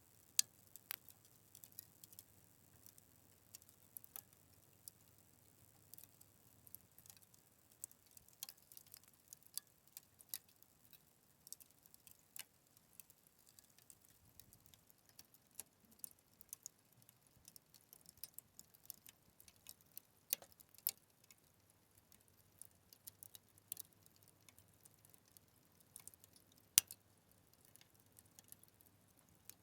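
Fire crackling: irregular sharp pops and snaps, scattered unevenly, with the loudest pops about half a second in and near the end.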